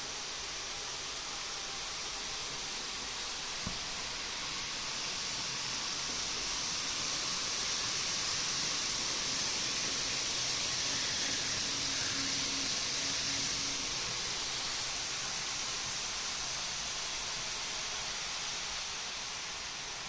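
N-gauge model Shinkansen train running on its track: a steady high hiss of rolling wheels and motor that grows louder toward the middle, then fades as the train moves away. There is one small click a few seconds in.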